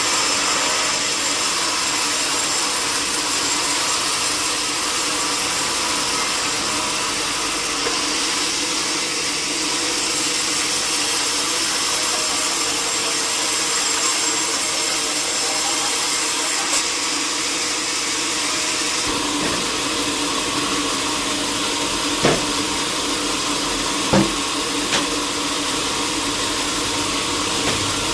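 Sawmill saw running steadily with a loud, even hiss, with a few short knocks in the later part.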